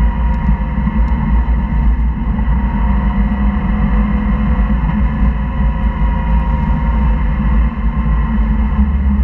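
Porsche flat-six engine under load at track speed, heard from inside the cabin as a steady loud rumble mixed with road and wind noise.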